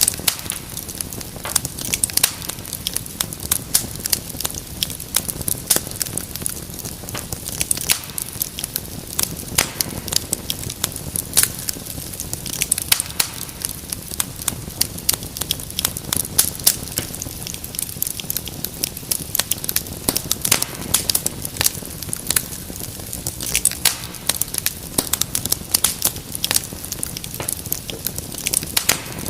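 Wood fire crackling in a fireplace: a constant stream of sharp pops and snaps over a low, steady rumble of flame.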